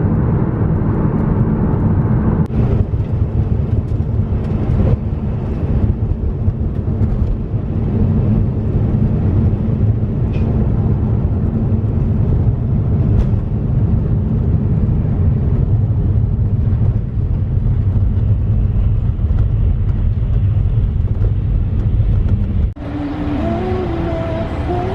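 A car on the road, giving a steady low rumble of engine and road noise. It cuts off abruptly near the end and gives way to music.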